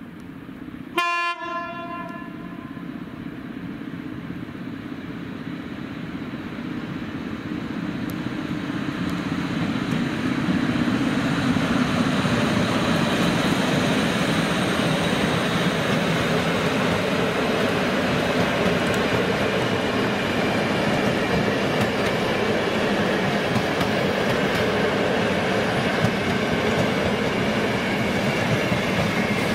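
A train sounds its horn once, briefly, about a second in. It then approaches and runs past, its wheels on the rails growing louder over the first ten seconds and then holding steady.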